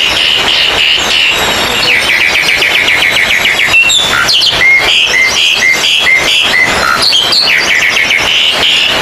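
Oriental magpie-robins (kacer) singing loudly over one another, a contest chorus of fast chattering trills. From about four seconds to seven seconds a run of short, repeated whistled notes comes through, about two or three a second.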